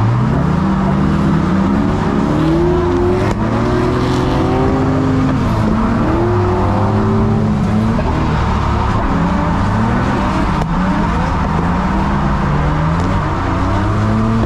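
Drift car engine revving hard through a run, its pitch rising and falling again and again as the throttle is worked, over a steady haze of tyre and road noise.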